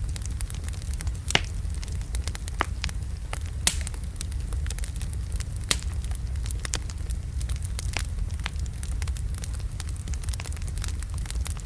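Wood fire burning in a fireplace: a steady low rumble of flames with scattered sharp crackles and pops from the burning logs, a few louder pops standing out.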